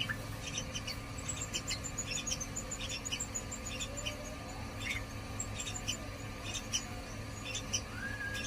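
Yellow-vented bulbuls calling: short, high, squeaky chirps repeated about twice a second, with a quick falling run of very high notes about a second in.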